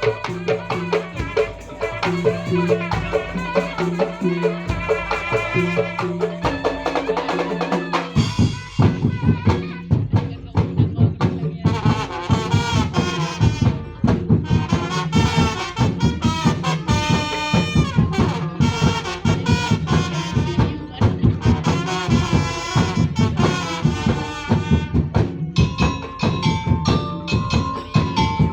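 Madurese ul-daul percussion ensemble playing a fast, dense rhythm on drums and struck wooden percussion, with a melodic lead over it. About eight seconds in the drumming comes in heavier and fuller.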